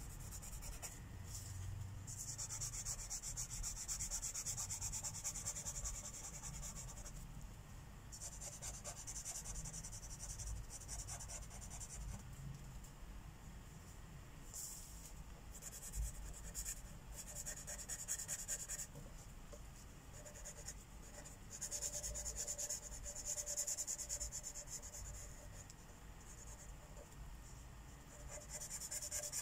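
Marker tips rubbing back and forth on paper as a mandala is colored in, in runs of a few seconds with short pauses between them.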